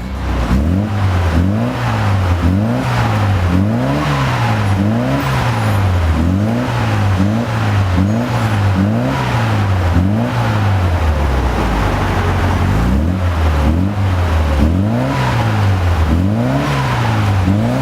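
A MINI's engine revved again and again through an aftermarket stainless muffler kit, about one rev a second, the exhaust note climbing and dropping back each time.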